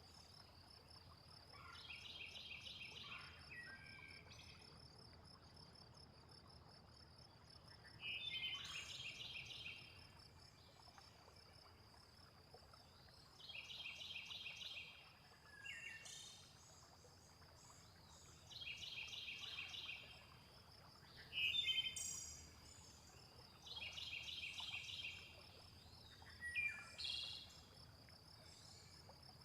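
Nature soundscape with a steady high insect drone and a faint low rushing of water. Over it, a bird repeats a short trilled phrase of rapid notes about every five seconds, between other brief chirps and swooping calls.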